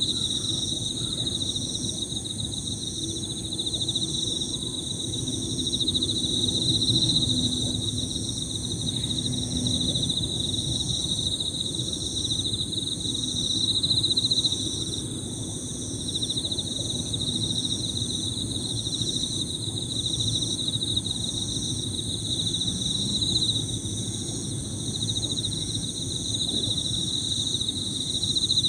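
Emma field crickets trilling in an overlapping high-pitched chorus, one trill swelling and fading, with a higher chirping insect call pulsing about once a second. A low steady noise runs underneath.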